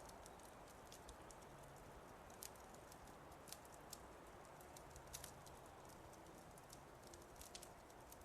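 Wood fire crackling softly: irregular sharp pops and ticks, a few louder snaps among them, over a faint steady hiss.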